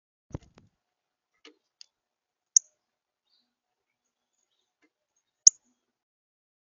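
Northern cardinal giving two sharp, high chip notes about three seconds apart, with a soft low thump near the start.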